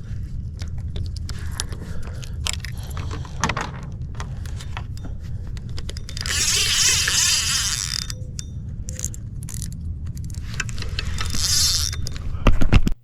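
Wind and handling noise on a small action-camera microphone: a steady low rumble with many clicks and rattles, and two long bursts of hissing noise. The sound cuts off abruptly near the end, as the camera is switched off.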